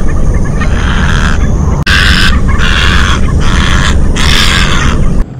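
Little blue heron giving a series of harsh calls, roughly one every half second to second, over a steady low rumble. The sound cuts off abruptly near the end.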